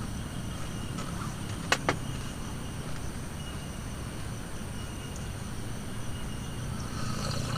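Campsite ambience: a steady low rumble of wind, with insects chirring as thin steady high tones, and two sharp clicks close together about two seconds in.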